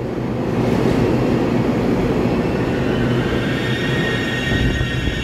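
EMU3000 electric multiple-unit express train running through the station, a loud steady rumble of wheels on rails with a low hum. A thin high whine sets in about halfway through.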